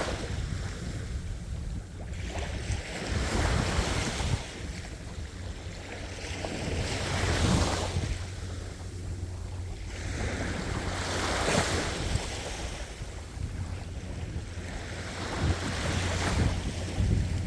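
Ocean waves breaking and washing on the shore, a surge swelling and fading about every four seconds, over a low steady rumble.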